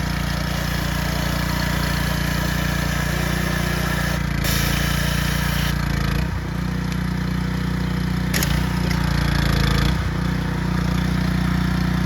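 Pressure washer motor running steadily while it flushes the engine's coolant passages, with a burst of water spray hiss about four seconds in and a sharp click a little after eight seconds.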